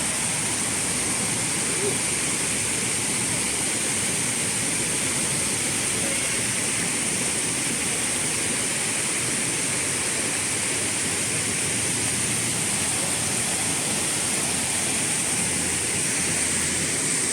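Waterfall: a steady, unbroken rush of falling water, with an even high hiss over it.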